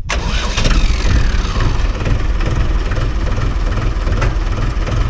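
Mahindra 575 DI tractor's four-cylinder diesel engine running steadily at idle, with a regular low pulsing.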